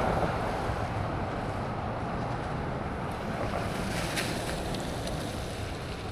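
Steady wind rushing over the microphone with road noise while riding a bicycle, with a few faint clicks about four seconds in.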